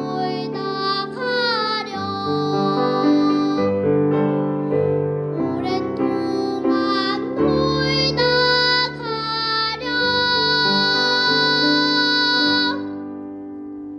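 A child singing a Korean children's song over instrumental accompaniment, finishing on a long held note near the end, after which the accompaniment rings on more quietly and fades.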